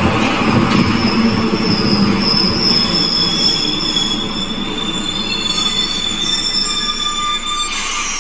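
Glasgow Subway train running through the station with its wheels squealing on the rails: several high squeals held at once over a rumble, ending with a falling squeal near the end.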